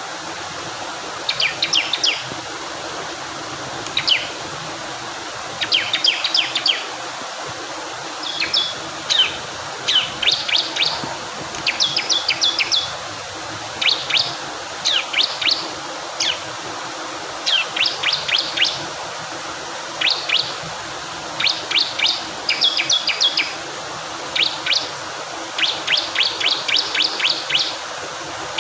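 Bar-winged prinia (ciblek kristal) singing in short bursts of rapid, high chirps, repeated every second or two, over the steady rush of flowing water.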